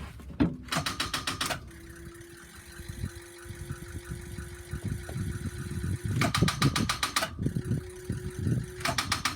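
A 2006 Ford E-450 bus's starter clicking rapidly in three bursts as the key is turned, without turning the engine over: there is not enough power to the starter, even with a jump box. A steady tone sounds between the bursts.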